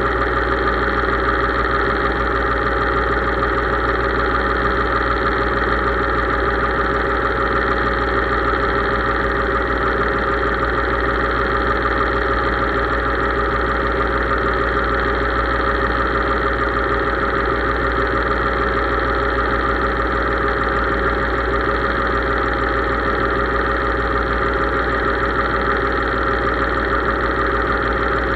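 Case IH 3220 tractor's diesel engine running steadily at constant speed.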